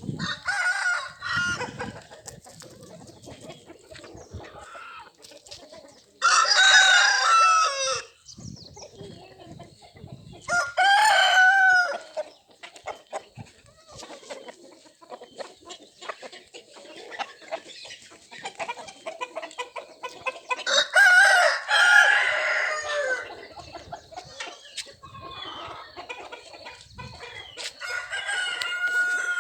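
Desi roosters crowing, several long crows a few seconds apart, with quieter chicken calls in between.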